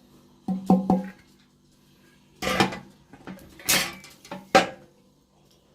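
A 2-litre fuel tank from a bicycle engine kit being handled: three quick knocks about half a second in, then three louder clatters and scrapes over the next two seconds.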